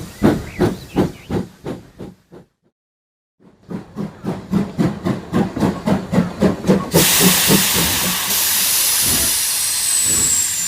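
Steam-train sound effect: quick, regular chuffing that breaks off for about a second, starts again, then gives way to a long, steady hiss of steam for the last few seconds, with a faint falling whistle-like tone near the end.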